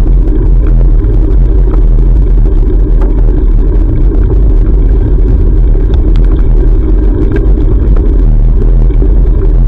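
Loud, steady low rumble of wind buffeting an action camera's microphone while cycling, with road traffic mixed in.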